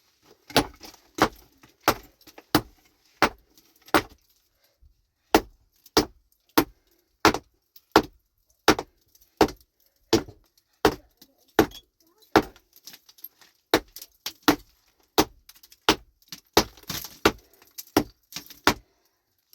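A metal hand tool striking stone again and again in an even rhythm, about one and a half sharp clinks a second with a short ring after each, as rock is chipped and broken.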